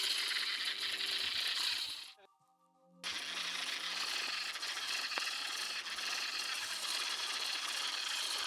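Toy RC tractors' small electric gear motors whirring, with their plastic gears rattling. The sound cuts out for about a second around two seconds in, then starts again.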